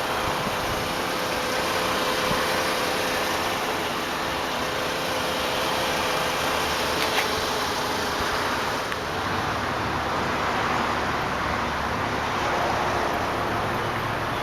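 2005 Volkswagen Jetta's 2.5-litre five-cylinder engine idling steadily, heard from outside the car over an even background hiss, with one small click about seven seconds in.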